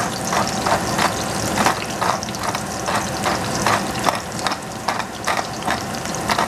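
Chopped scallions sizzling in hot oil in a stainless saucepan, with a hand-twisted pepper mill grinding over the pan in short clicking strokes, about three a second.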